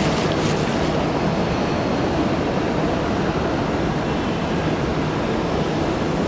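Jet airliner's engines running, a steady, even noise without pauses or changes in pitch.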